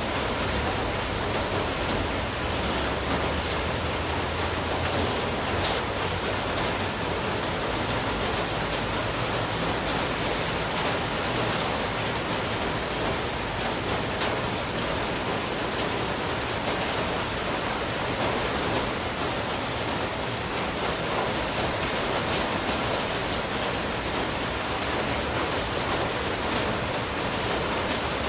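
Steady monsoon downpour, an even hiss of heavy rain with a few faint drop ticks scattered through it.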